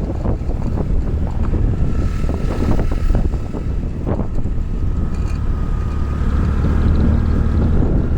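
Riding noise on a moving bike: wind buffeting the microphone over a steady low rumble. A faint steady whine comes in about two seconds in and fades near the end.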